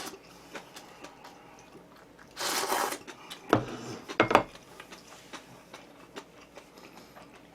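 Close-up eating sounds: a short noisy slurp of cup ramen noodles about two and a half seconds in, followed by a few sharp clicks of mouth, chopsticks or the cup.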